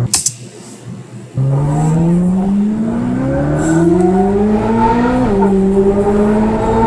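Chevrolet C8 Corvette Z06's flat-plane-crank V8 with an aftermarket exhaust accelerating hard: the note comes in suddenly about a second in and climbs steadily for about four seconds, drops at an upshift, then holds steady under power.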